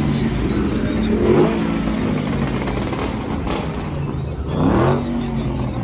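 Car engine running with its throttle blipped into short revs, one about a second in and a louder one near the end.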